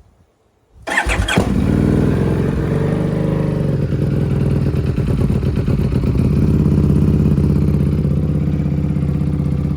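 EBR 1190RX motorcycle's 1190 cc V-twin, breathing through a Dean Adams round muffler, catching on a cold start about a second in. It then settles into a steady idle with no revving.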